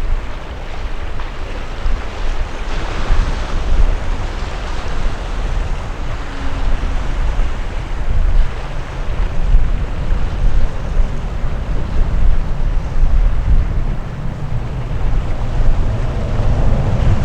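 Wind buffeting the microphone: a loud, rough, fluctuating low rumble with a hiss above it.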